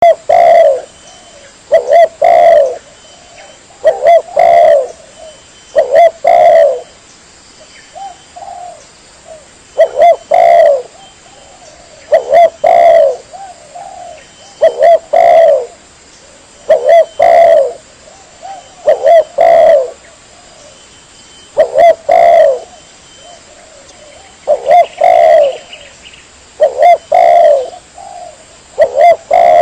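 Spotted dove (tekukur) cooing in short phrases of two or three low coos, one phrase about every two seconds. It is a lure call recording used to draw in wild doves.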